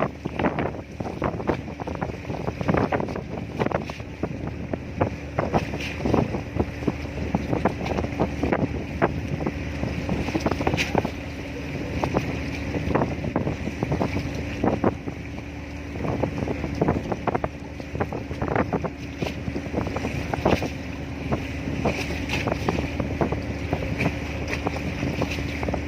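Steady low drone of a ship's engine, with a held hum throughout, under irregular crackling gusts of wind buffeting the microphone.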